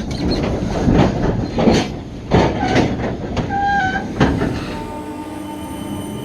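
Class 426 third-rail electric train running over rail joints or pointwork: a series of heavy, uneven clunks, a brief squeal that steps down in pitch about three and a half seconds in, then a steadier rumble with faint whining tones.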